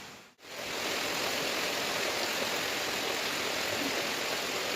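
Steady monsoon rain falling, an even hiss of water. It cuts out for a moment right at the start, then holds steady.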